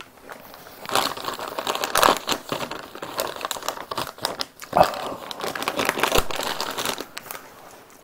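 Close-miked chewing of a mouthful of cold jokbal with crunchy cucumber: irregular wet crackling and clicking, with a louder crunch about halfway through.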